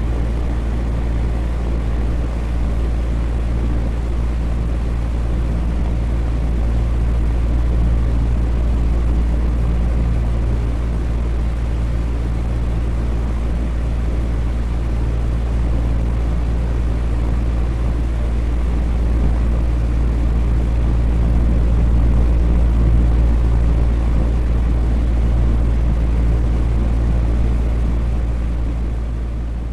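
Electric fan running steadily: an even rush of moving air, heaviest in the low end, with a low hum underneath.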